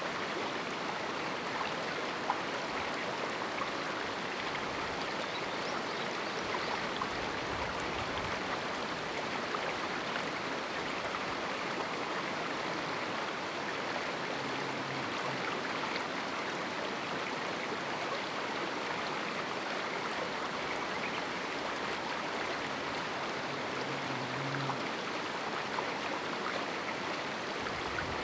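River water flowing over rocks in a small canyon: a steady, unbroken rushing and splashing.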